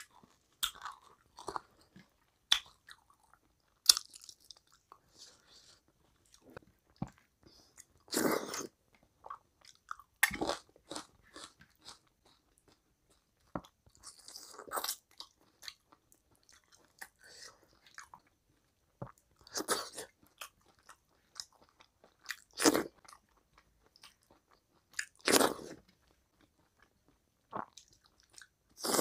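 Close-miked eating sounds: a person chewing and biting mutton curry and rice eaten by hand, in short irregular bursts with quiet gaps between.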